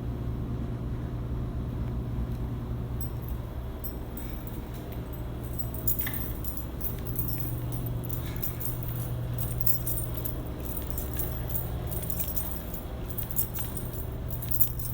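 A ring of janitor keys on a walking man jangling, setting in about five seconds in, over a steady low hum.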